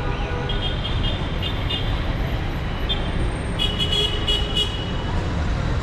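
Steady rumble of busy city street traffic, with vehicle horns giving runs of short, high-pitched toots: one from about half a second in, another around four seconds in.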